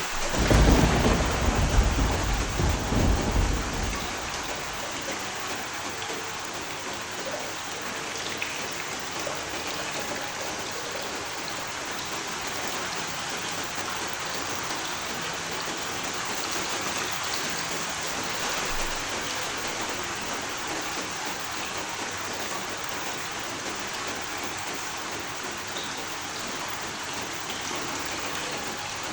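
Steady rain with a low rumble of thunder in the first few seconds. The thunder is the loudest part and dies away by about four seconds in, leaving the even hiss of rain.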